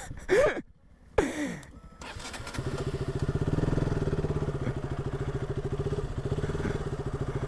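Motorcycle engine starting about two seconds in, then running steadily at idle with a fast, even pulse.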